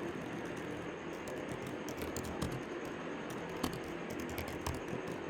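Typing on a computer keyboard: irregular keystrokes over a steady background hiss.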